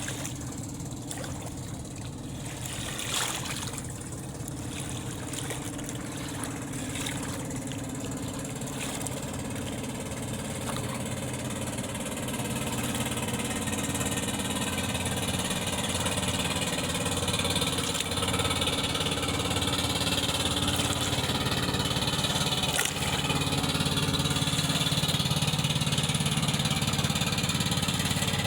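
An engine running steadily at a low, even pitch, growing gradually louder.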